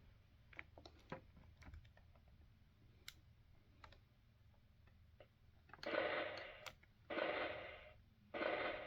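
Light plastic clicks as a figure is worked on a Fisher-Price Great Adventures Magic Castle playset. About six seconds in, three short electronic sound effects for the cyclops play from the toy's small speaker, something like a stomp, a stomp and a laugh.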